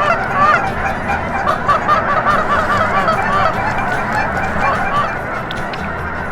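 A large flock of geese honking, many calls overlapping into a continuous racket that thins a little toward the end.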